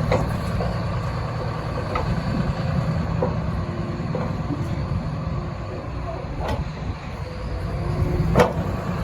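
CAT 336FL excavator's diesel engine running steadily, with occasional sharp metallic knocks from the machine, the loudest near the end.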